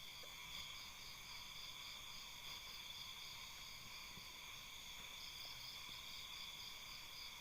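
Faint chorus of night insects such as crickets, a steady high trill with a rapid pulsing in its highest note.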